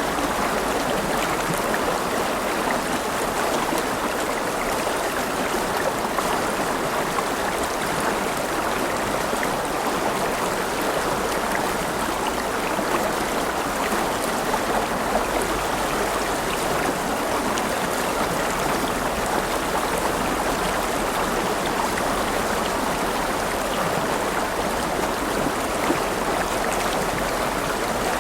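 River water flowing and splashing steadily over rocks, an even rushing babble with fine trickling detail.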